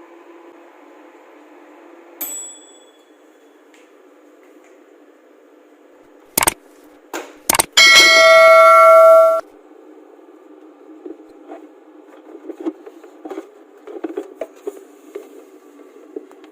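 Microwave oven finishing its run: the low hum stops with a short ding about two seconds in. A few sharp clicks follow, then a loud steady beep of about a second and a half that cuts off abruptly, and after it light clatter of dishes.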